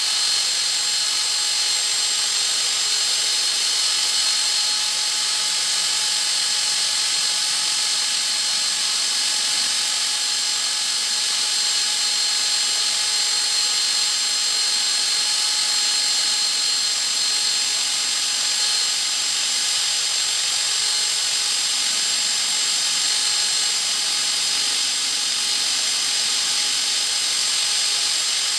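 A power tool running steadily at constant speed: an even high hiss with a steady high-pitched whine.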